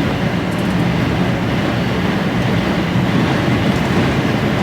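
Steady drone inside an HGV lorry cab at motorway speed: the engine's low hum mixed with tyre and road rumble and storm wind buffeting the cab while the truck drives head-on into the gale.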